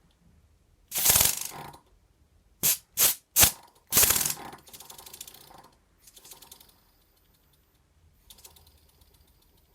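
Model double-acting wobbler (oscillating-cylinder) steam engine being started and run. There are several loud hissing exhaust puffs in the first half, then a fainter, rapid, even ticking as it runs on and fades away.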